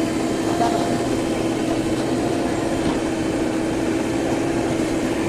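Diesel engine of heavy construction machinery running steadily, with a steady hum over the engine noise.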